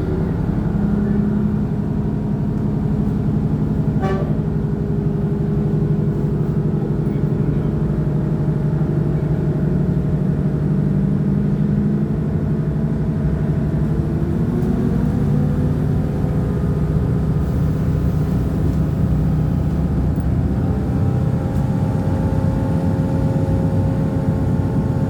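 Diesel engine of CP railcar UDD 0467 running steadily with a low, even hum, its pitch shifting up slightly about halfway through and again near the end.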